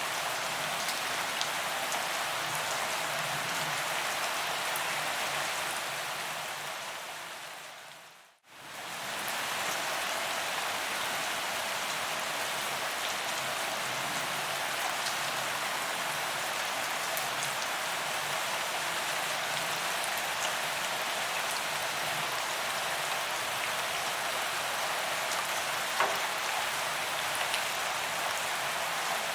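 Steady rain falling on a paved promenade, an even hiss of drops on the ground. About eight seconds in it fades out to silence and immediately fades back up to the same level.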